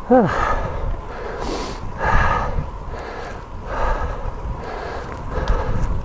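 A cyclist breathing hard and sniffing in freezing air, a breath about every one and a half seconds. It opens with a short sigh falling in pitch, over a low rumble of wind on the microphone.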